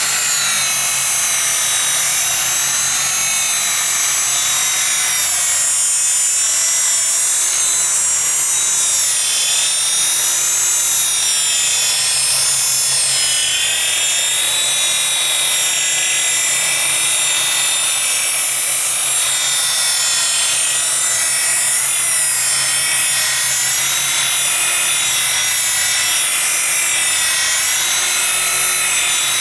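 Electric rotary buffer running steadily as its pad polishes oxidized boat gel coat. The motor's whine rises and falls slightly as the load on the pad changes.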